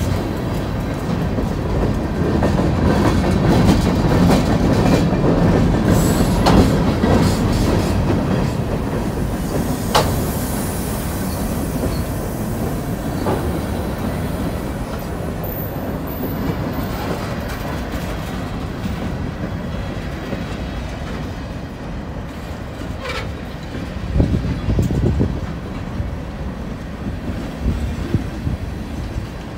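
Freight cars of a short-line freight train rolling past, steel wheels running over the rail with a steady rumble and a few sharp clanks. The sound is loudest in the first few seconds, just after the locomotives pass, and swells again briefly near the end.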